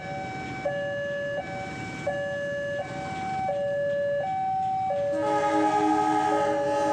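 Level crossing warning alarm sounding a two-tone ding-dong, switching pitch about every 0.7 seconds. About five seconds in, a diesel locomotive's horn comes in over it as a train approaches.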